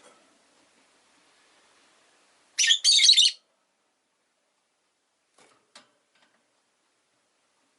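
Rosy-faced lovebird giving two short, high calls in quick succession, about two and a half seconds in, followed by a couple of faint clicks.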